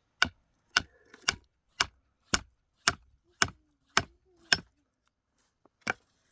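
Repeated hard blows from a hand tool striking something solid, about two a second: nine in a row, then a pause and one more blow near the end.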